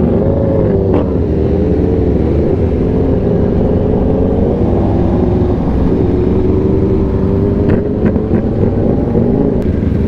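Sport bike engine, the rider's 2018 Yamaha R1 inline-four, running at speed. Its pitch wavers up and down slightly over a steady low rumble.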